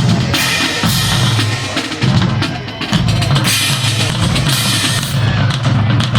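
Marching band drumline playing a drum feature: rapid snare strikes over pounding bass drums.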